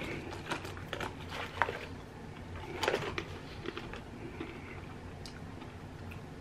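Someone chewing crunchy nacho-cheese-coated peanuts, with a scatter of short crisp crunches mostly in the first three seconds, then quieter chewing.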